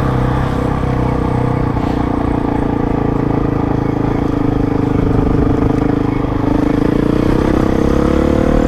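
2006 Honda CRF450 supermoto's 450cc single-cylinder four-stroke engine running under way at a steady pitch, rising slightly near the end.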